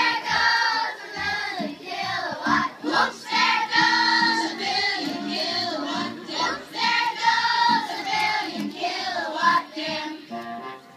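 Music with high-pitched singing voices, their melody gliding up and down.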